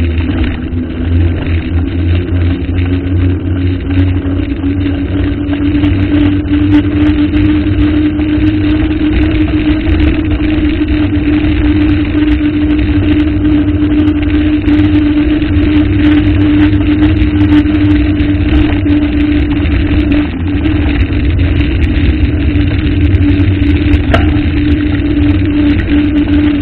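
Motor vehicle engine running at a steady speed with a deep rumble, holding one even tone.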